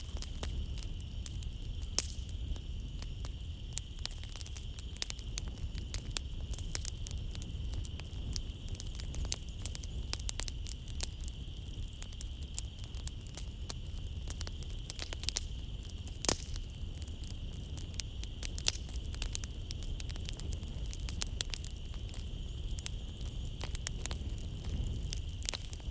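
Wood fire burning in a fireplace, crackling and popping irregularly over a low rumble, with a steady high trill of crickets behind it.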